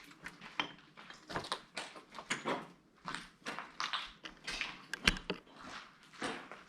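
Irregular footsteps, with one sharp knock about five seconds in.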